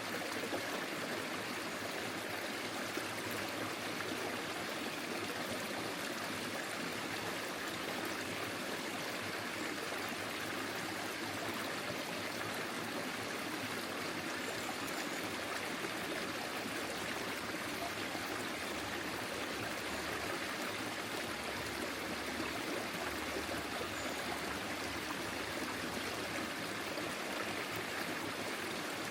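Forest stream flowing over stones, a steady even rush of running water.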